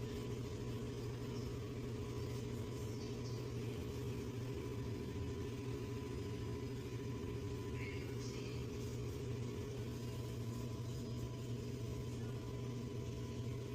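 Honda Pilot's 3.5-litre V6 engine idling steadily, an even low hum with no change in speed.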